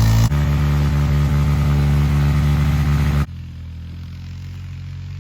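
Four-wheeler (ATV) engine running loudly and steadily. It changes abruptly just after the start, then drops to a quieter steady run a bit over three seconds in.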